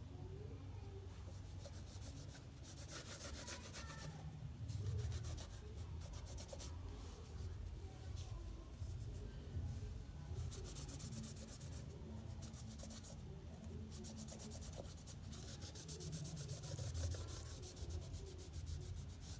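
A brush scrubbing back and forth over a tractor tyre in quick strokes, coming in bursts: paint being worked onto the rubber.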